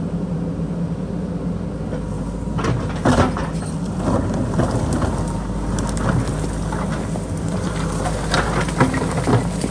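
JCB backhoe loader's diesel engine running steadily under load, with a sharp knock about three seconds in and scattered clatter of rock and bucket in the second half as boulders are dug out.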